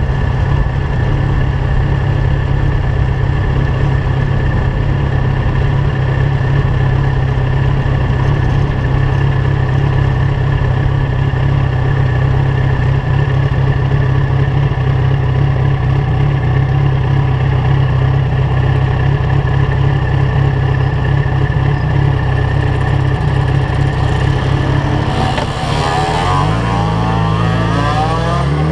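Yamaha FZ1 inline-four engine through an aftermarket LeoVince GP-style exhaust, heard from on board, running at low, steady revs while the bike rolls slowly. Near the end the engine note steps and then rises as the bike accelerates away.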